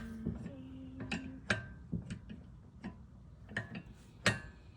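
Irregular sharp clicks and knocks from hand tools being worked on the rear shock mounts, about ten spread unevenly over the few seconds.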